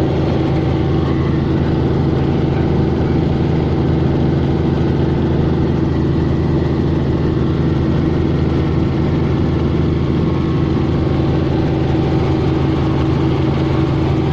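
Helicopter running: a loud, steady drone of engine and rotor with several fixed tones, unchanging throughout.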